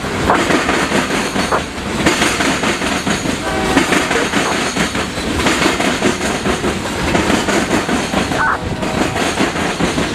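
A train rolling past close by, its wheels clattering steadily over the rails, with brief high squeals from the wheels now and then.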